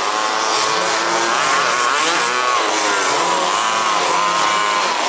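Several 1/5th-scale petrol two-stroke RC buggy engines racing, their pitch rising and falling as they rev up and back off through the corners, with more than one engine heard at once.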